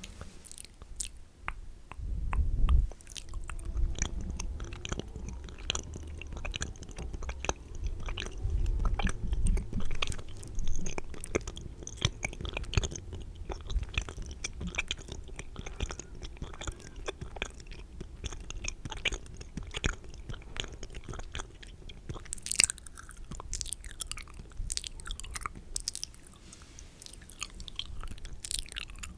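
Close-miked wet mouth sounds: a dense run of moist clicks, smacks and licks right on the microphone, with heavy low thumps in the first ten seconds and a brief hissy swish about three-quarters of the way through.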